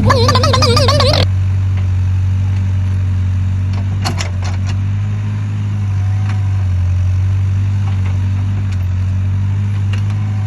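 Excavator's diesel engine running steadily at a low idle, with a few sharp clicks about four seconds in. A wavering high-pitched sound cuts off about a second in.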